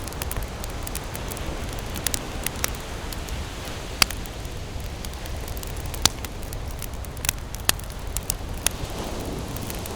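Wood campfire crackling, with irregular sharp pops and snaps, the loudest about four seconds in, over a steady low rumble.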